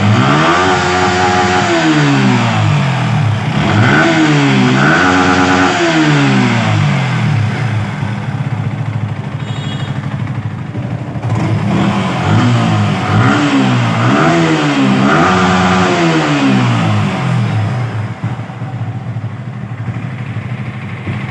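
Yamaha R15's single-cylinder engine revved from idle in a series of short throttle blips, the pitch rising and falling each time, settling back to a steady idle between the bursts and near the end.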